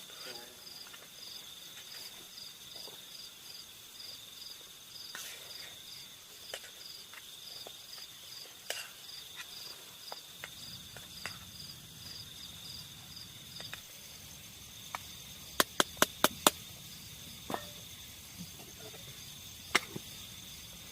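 Night insects, crickets among them, trilling steadily, with a high pulsed chirp about three times a second that stops partway through. Scattered single clicks, and a quick run of five sharp clicks a little past the middle, the loudest sound.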